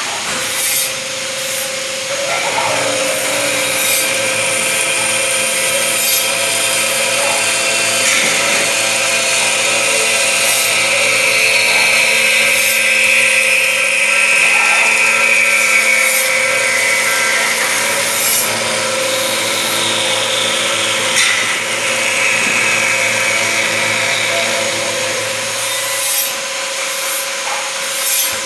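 Datyso MC 400 burr-free metal cutting saw running steadily with a hum, its blade cutting through metal stock with a high, grinding whine. The cutting eases off a couple of seconds before the end.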